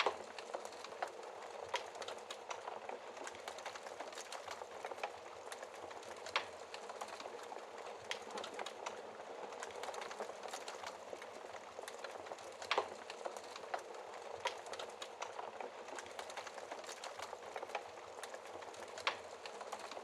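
Wood fire crackling in a fireplace: a steady soft hiss with constant small snaps and a few louder pops every six seconds or so.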